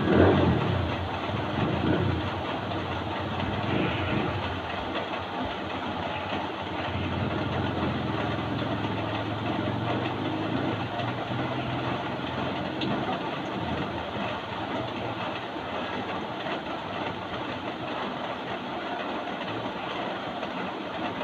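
Steady rain. It is louder for about the first second, and a low rumble joins it for several seconds in the middle.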